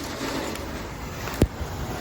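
Wind from a windstorm rushing steadily against the microphone, with one brief low thump about one and a half seconds in.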